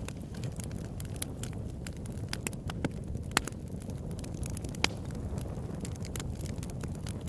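Campfire burning with a steady low rumble and irregular crackles and pops of burning wood, the sharpest pops a little over three seconds in and just before five seconds.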